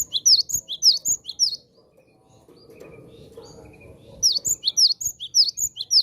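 Cinereous tit (gelatik batu) singing: bouts of rapid, repeated high whistled notes, each sharply falling, about five a second. One bout runs for the first second and a half, and another begins about four seconds in.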